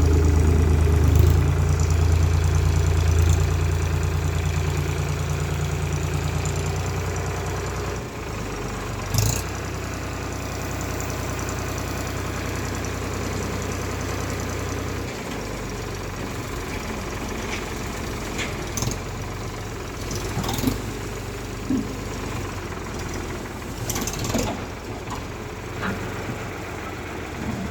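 Tractor diesel engine running, loud at first, then dropping to a quieter, steadier run about eight seconds in. Scattered short knocks and clanks sound over it in the second half.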